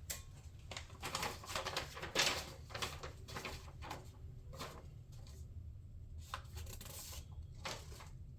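Packaging being handled and rustled: a run of short crinkles and crackles that thins out after about five seconds to a few separate clicks.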